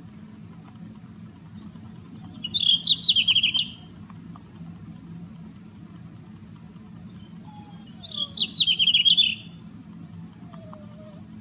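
A small songbird sings two short, rapid song phrases about five seconds apart, each a quick run of high notes, over a steady low hum.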